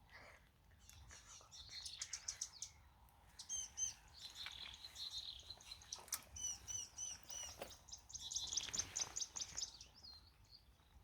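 Birds chirping outdoors: several runs of short, high, quickly repeated notes, one after another.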